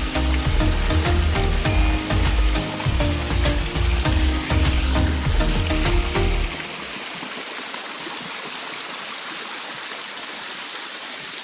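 Background music with a steady beat over rushing water; the music stops about six and a half seconds in, leaving the steady rush of the waterfall.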